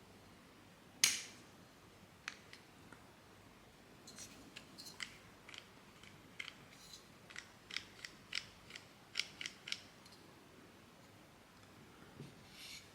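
Hard plastic clicks and taps as 3D-printed parts are handled and snapped together: one sharp click about a second in, then a quick, irregular run of lighter clicks, and a brief rustle near the end.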